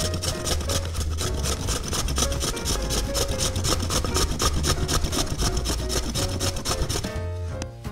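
Raw potato being grated on a metal grater plate in a plastic frame: fast, rhythmic rasping strokes, several a second, which stop about a second before the end.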